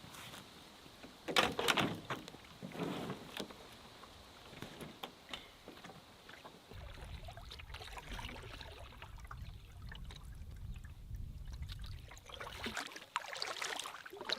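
Paddle strokes dipping and splashing in lake water, a few separate strokes near the start and again near the end. A low rumble runs for several seconds in the middle.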